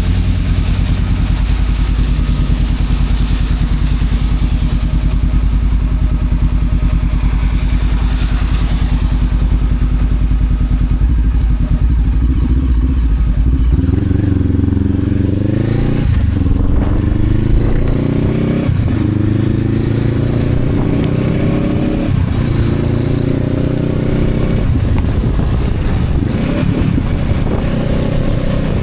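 Honda CB500X's parallel-twin engine running steadily under way. About halfway through it accelerates hard, the pitch rising and dropping back at each of several upshifts.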